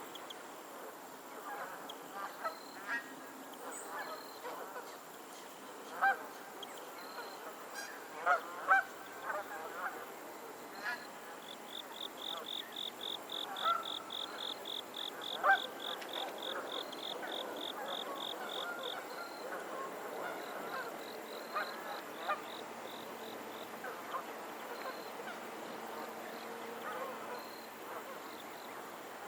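Geese honking on and off, scattered short calls with a few louder ones, over a steady background hum of the outdoors.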